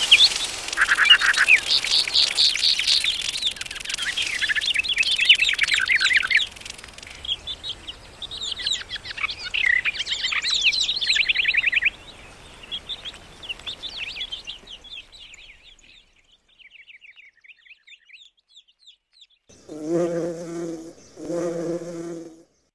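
Songbirds chirping and trilling over a faint high hiss, thinning out and fading away about 15 seconds in. Near the end come two short, low pitched notes about a second and a half apart.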